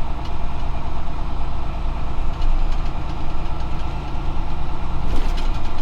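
Semi truck's diesel engine running at low speed, heard from inside the cab as a steady low hum, with a few light clicks near the end.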